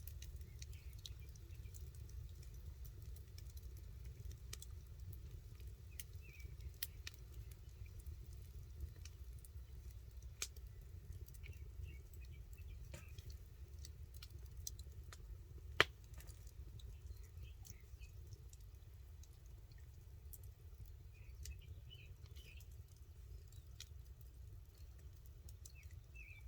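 Campfire wood crackling: scattered sharp pops and ticks, one louder pop about sixteen seconds in, over a steady low rumble.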